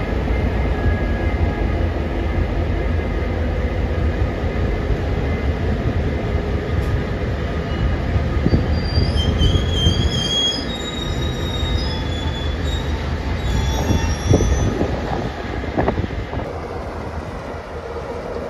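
Heritage passenger train's carriages rolling slowly along the platform with a low, steady rumble, and a thin high squeal from the wheels coming and going from about nine seconds in. Near the end this gives way to locomotive 42105's two-stroke V16 EMD diesel idling with a steady hum.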